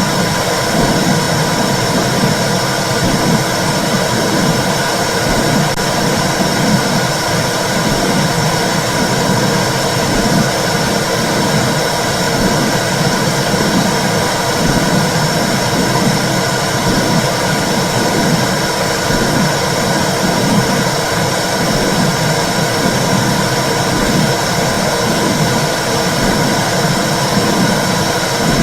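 Womb sound for soothing babies: a steady whooshing rumble with a slow, even pulsing beat underneath, like blood flow inside the uterus.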